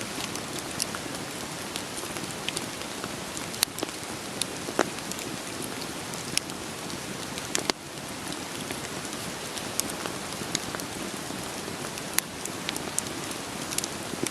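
Steady rain with the sharp, irregular crackles and pops of burning firewood scattered through it. The level drops suddenly for a moment about eight seconds in, then the rain carries on.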